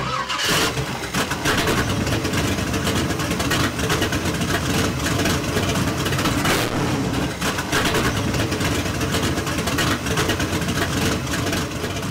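A car engine running loudly and steadily, with a rough, dense sound.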